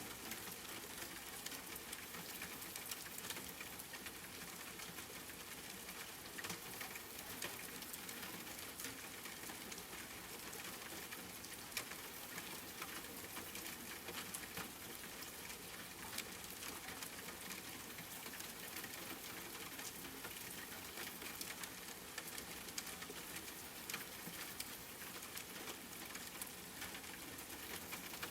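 Steady rain falling, with many small drop impacts pattering on a surface.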